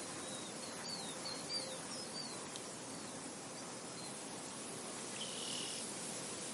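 Steady wind hiss across a field with small birds chirping: a string of short chirps in the first two seconds or so, then a brief whistled note about five seconds in.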